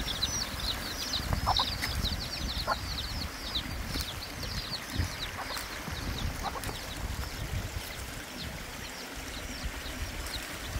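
Birds chirping: rapid runs of short, high, falling chirps, thickest in the first half and then thinning out, with a few lower calls in between, over a low rumble.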